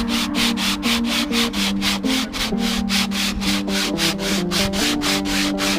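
Sandpaper rubbed by hand back and forth along wooden guitar necks being shaped, in quick even strokes about five a second. Background music plays underneath.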